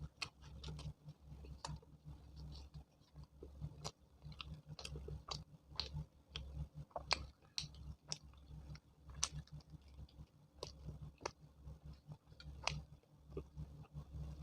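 Close-miked mouth sounds of someone eating: wet chewing with irregular lip smacks and small clicks, a few each second.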